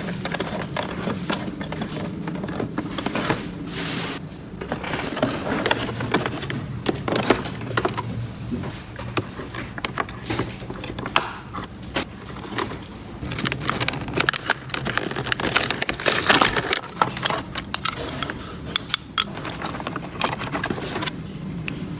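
Small plastic toy pieces being handled, with irregular clicks, taps and scraping over a steady low hum, busiest about two thirds of the way through.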